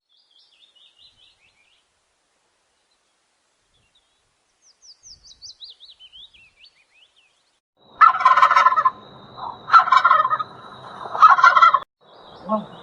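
Bird calls: faint high chirps in a falling series, then three loud calls in the second half, each about a second long and about a second and a half apart.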